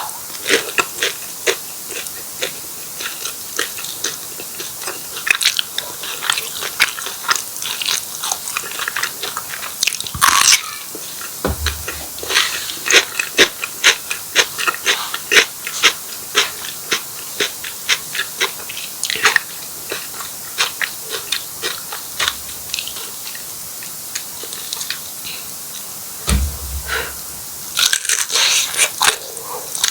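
Close-miked mouth sounds of a person eating martabak telur, a fried stuffed pastry with egg, corned beef and mozzarella: repeated bites, crunching and wet chewing in a quick, irregular run of clicks and crackles. Two brief low thumps come about a third of the way in and again near the end.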